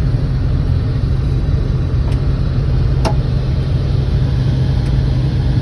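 Combine harvester engine running with a steady low drone, with a sharp click about three seconds in.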